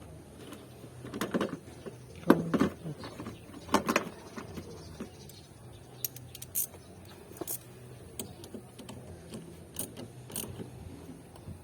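Metallic clinks and rattles of hand tools as a car battery's terminal is reconnected: a few sharp knocks in the first four seconds, then lighter scattered clicks.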